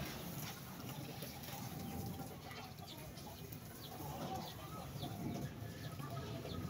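Birds chirping in short, scattered calls, with a few lower, longer calls among them.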